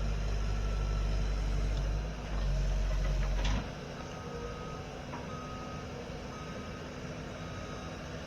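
Vehicle's backup alarm beeping steadily, about once a second, starting about four seconds in. Before that, a loud low rumble stops suddenly about three and a half seconds in.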